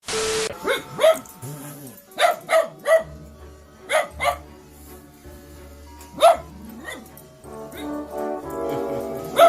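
A dog barking in short single and paired barks, about eight in all, over background music.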